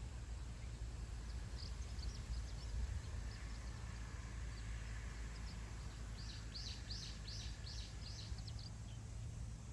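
Steady low wind noise blowing on the microphone over open grassland. Small wild birds chirp here and there, and about six seconds in one sings a quick run of about seven high notes.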